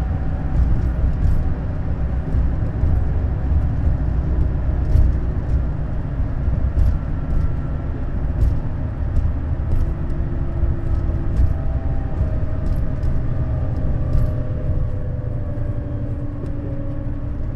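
Neoplan Skyliner N 1122/3C double-deck coach under way: a steady low engine and road rumble with faint whines that drift in pitch, and scattered light rattles. It eases off a little near the end.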